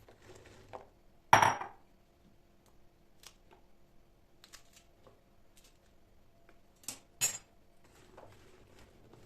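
Kitchen dishes and utensils being handled: one loud clank a little over a second in, scattered light clicks, and two sharp knocks close together around seven seconds in, over a faint steady hum.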